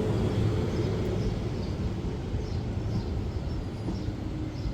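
Class 444 electric multiple unit at the platform, its equipment giving a steady low hum that eases slightly toward the end.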